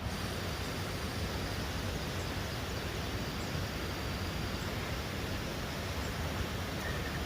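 Steady outdoor background noise, heaviest in the low end, with a faint thin high tone through the first few seconds.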